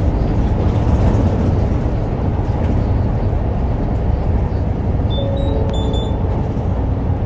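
City route bus running, heard from inside the cabin: a steady low engine and road rumble.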